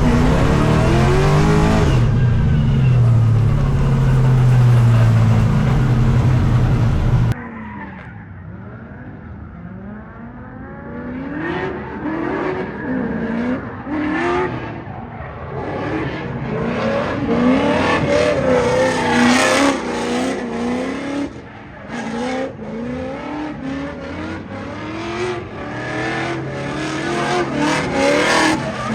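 LS V8-swapped BMW E82 drift car driven hard, its engine revving with tyres squealing as it slides. About seven seconds in, the sound cuts abruptly to a quieter take in which the revs rise and fall again and again through the drifts.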